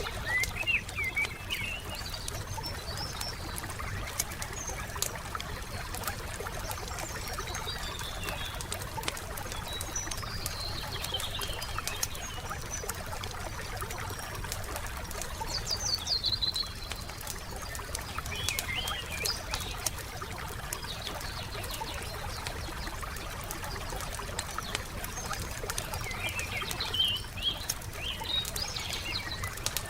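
Wood campfire crackling, with frequent small sharp pops, over a steady low hiss. Small birds chirp in short phrases every few seconds.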